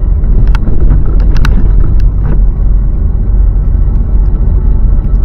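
Steady low road-and-engine rumble of a car being driven, heard from inside the cabin, with a few short clicks early on.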